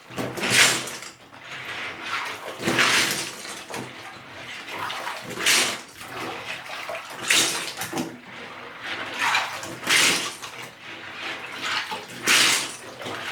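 Water sloshing and splashing in repeated swishes, about six in all, roughly every two seconds, as hands sweep through a tub of soapy water fishing out Lego bricks.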